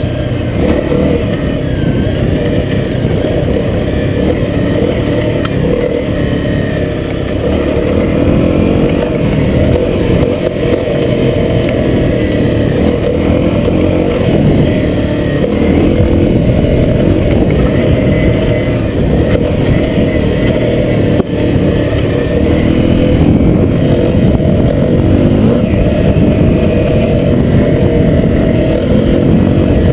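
Honda CRF250L's single-cylinder four-stroke engine running as the bike is ridden off-road, the throttle opening and closing so the engine note rises and falls. It gets a little louder about halfway through.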